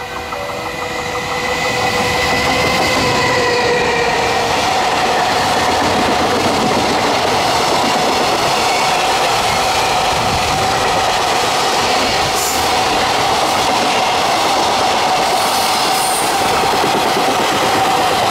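A freight train hauled by a JR Freight EF210 electric locomotive passes at speed. The sound grows louder over the first two seconds as the locomotive arrives, with a high whine in the first few seconds. It then settles into a steady, loud rumble of the container wagons' wheels running on the rails.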